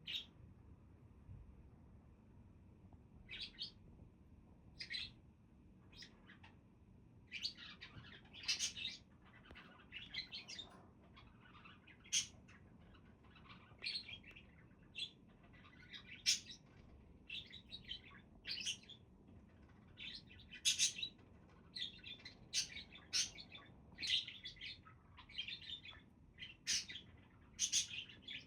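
Budgerigars chirping: short high chirps, a few scattered at first, then coming thick and fast from about seven seconds in.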